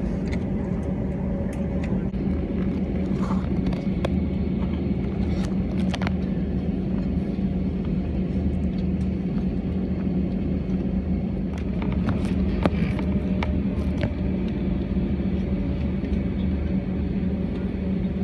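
Airbus A320 cabin noise: the engines give a steady low rumble with a constant hum, and a few small clicks and knocks come through here and there.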